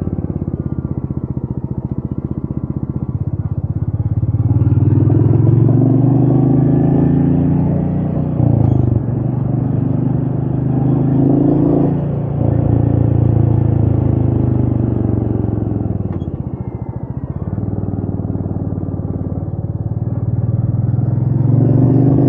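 Royal Enfield Meteor 350's single-cylinder four-stroke engine under way, heard from the rider's seat with wind rushing past. The revs climb from a few seconds in, dip briefly twice in the middle, ease off a little past halfway and climb again near the end.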